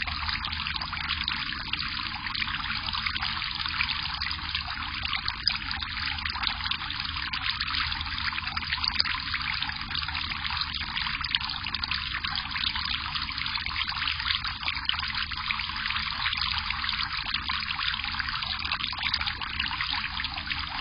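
Water trickling steadily at a bird bath, with a faint low hum underneath.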